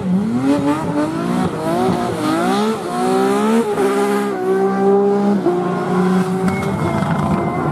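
A rally car's engine accelerating hard through the gears. The revs climb and fall back with each quick upshift for the first three and a half seconds, then hold steady, stepping down a little over halfway through.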